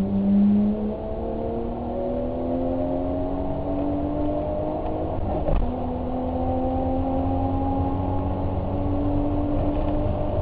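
Car engine accelerating under load, its pitch rising slowly, with a short knock and a drop in pitch about halfway through before it climbs again.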